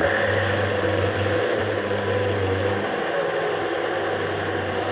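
Countertop blender running steadily at full speed, blending a fruit smoothie.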